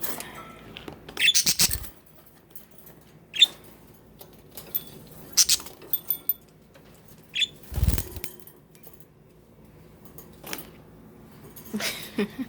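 Pet budgies giving short, scattered squeaky chirps among scratchy rustles and taps, with a dull thump about eight seconds in.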